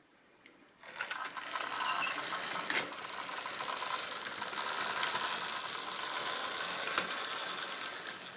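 Model railway train running along the track: a steady mechanical clatter of wheels and mechanism that starts about a second in and fades toward the end as it moves away.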